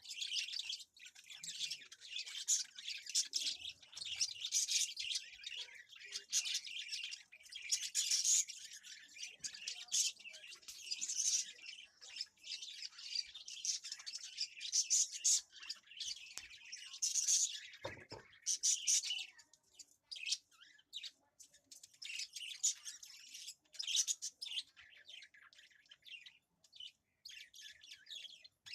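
Birds chirping and twittering in a dense, uneven chorus of short high-pitched calls, with a single dull thump about two-thirds of the way through.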